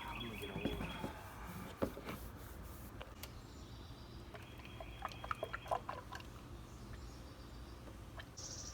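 Motor oil glugging as it is poured from a bottle into the engine, with scattered clicks and knocks of handling.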